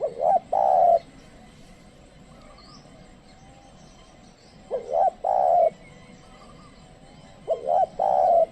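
Spotted dove cooing three times, a few seconds apart. Each phrase is a short stuttering double note followed by a longer rolling coo. It is a tame decoy dove calling to lure wild doves.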